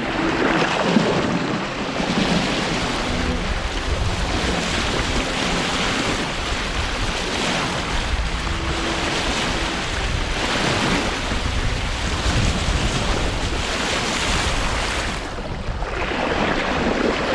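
Wind buffeting the microphone over the steady rush of water along a sailboat's hull while it sails downwind. There is a brief dip about three-quarters of the way through.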